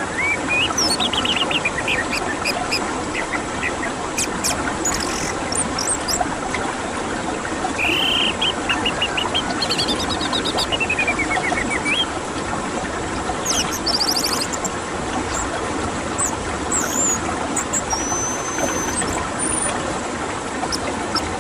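Scattered short bird chirps and whistles over a steady rushing of flowing water, as in a birdsong therapy recording.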